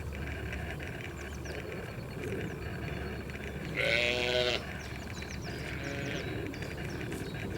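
A bleating animal call, about half a second long, roughly four seconds in, with a fainter call near six seconds. Both sound over steady outdoor background noise with short high chirps scattered throughout.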